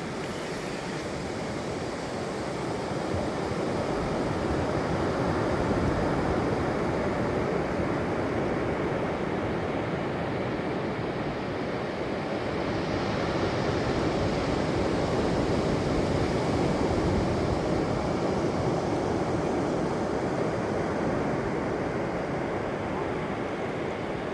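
Ocean surf breaking and washing on the beach: a steady wash of noise that swells twice and eases.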